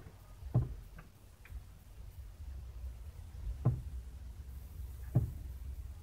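Northern cardinal striking the car's side mirror, three dull knocks heard from inside the cabin with a couple of faint wing or claw ticks between; the bird is attacking its own reflection.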